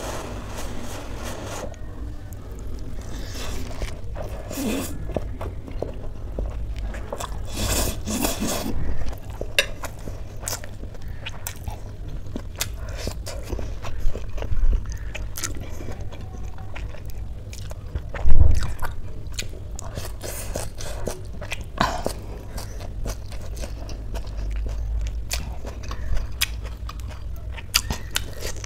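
Close-miked chewing of spicy instant Maggi noodles: wet mouth clicks and smacks with occasional crunches, a noisier slurp-like stretch about eight seconds in. One dull thump about two-thirds of the way through is the loudest sound.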